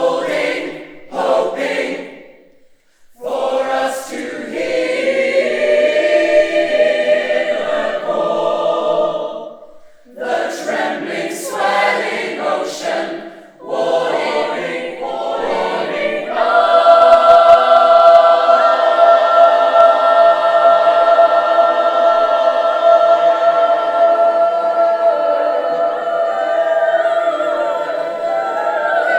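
Choir singing: short broken phrases at first, then long held chords, the loudest one starting about sixteen seconds in and held steady.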